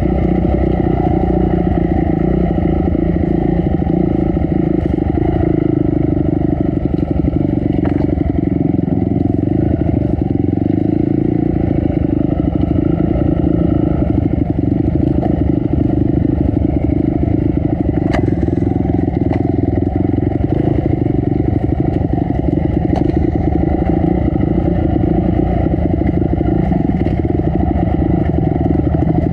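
Honda CRF250 dirt bike's single-cylinder four-stroke engine running steadily at a nearly constant speed while riding a trail, with a few sharp clicks and clatter, including one about eight seconds in and one past the middle.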